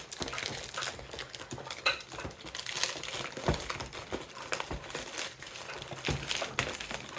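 Plastic packaging crinkling and rustling as it is handled, with scattered clicks and a few low knocks.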